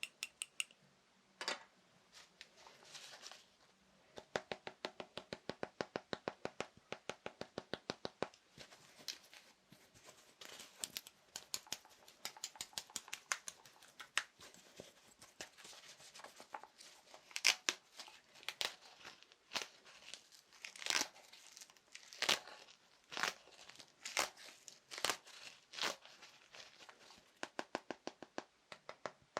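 Fingers tapping fast on assorted small objects in quick, even runs of sharp taps, with louder scratchy, crinkly strokes mixed in now and then.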